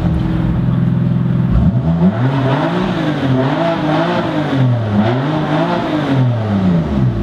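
A BMW M3 F80's twin-turbo inline-six running on its stock exhaust: it holds a steady note for about a second and a half, then is revved several times in a row, the pitch rising and falling with each rev.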